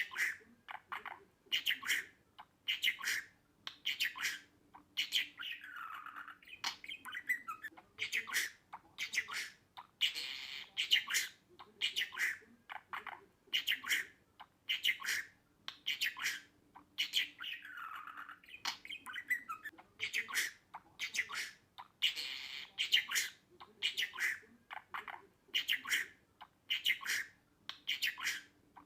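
Budgerigars chirping and squawking: short sharp calls about once a second, with longer warbling chirps mixed in, in a pattern that repeats every few seconds. A faint steady low hum runs underneath.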